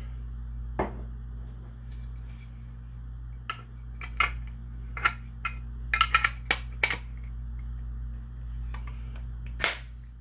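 Sharp metal clicks and clinks as parts of a side-by-side shotgun are handled and fitted together by hand: a quick cluster around the middle and the loudest click near the end, over a steady low hum.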